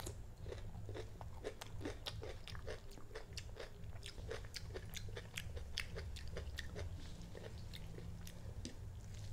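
Close-up chewing of a crispy fried egg: a steady run of crunches, about three or four a second.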